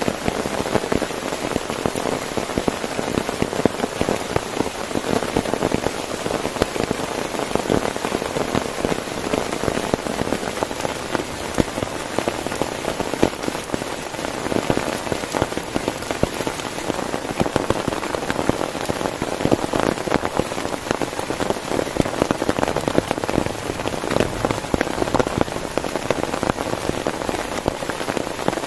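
Heavy rain falling steadily on a tent, a dense, unbroken mass of drop impacts on the fabric.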